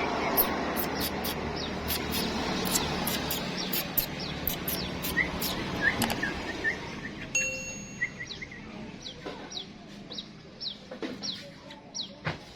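Bird chirping over and over: short, sharp, high chirps at about three a second, with a few shorter, lower notes mixed in, over a steady background noise that fades about halfway through.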